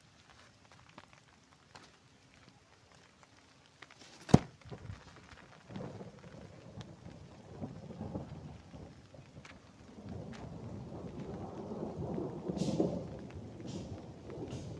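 A single sharp crack about four seconds in, followed by a rolling rumble that swells and fades, loudest near the end.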